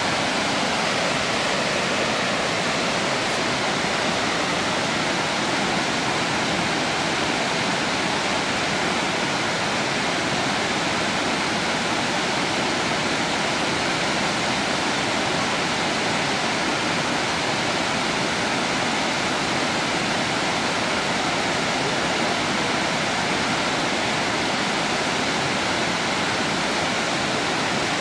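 Triple Falls, a three-tiered waterfall, rushing in a steady, unbroken roar of falling water.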